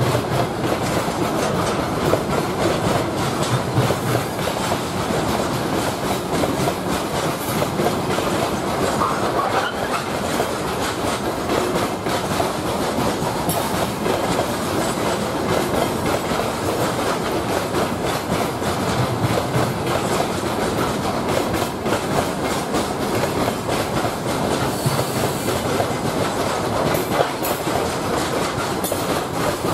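Freight train wagons, covered hoppers and gondolas, rolling past at close range: a steady rumble of wheels on rail with a dense, continuous clacking of wheels.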